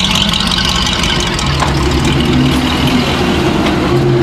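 Cars driving slowly past at low revs, a vintage pickup truck and then a Ford Mustang, their engines making a steady low hum that grows stronger in the second half.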